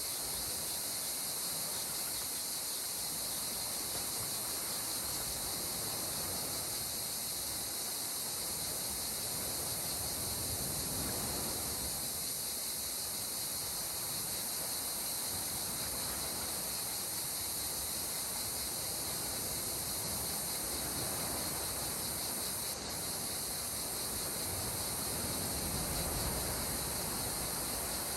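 Calm sea water washing gently against the shore, swelling a little about a third of the way in and again near the end, under a steady high-pitched drone of insects.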